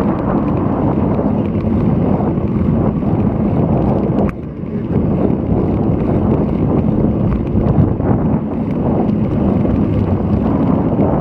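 Loud wind buffeting an action camera's microphone while riding a road bike in strong typhoon wind: a steady low rumble that dips briefly about four seconds in.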